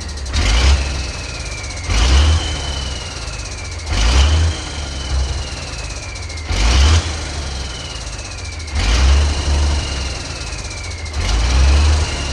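Ford D series 1314 truck's turbocharged engine running, with short rises in revs about every two seconds. After each one a turbocharger whistle falls steadily in pitch.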